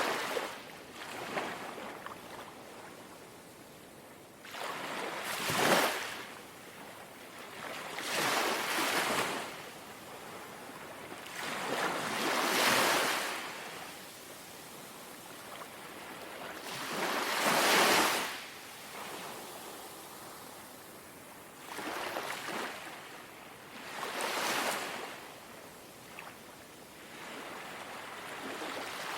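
Small, calm sea waves lapping on the shore. Each wave is a hiss that swells and fades, and they come irregularly every two to five seconds, about eight times.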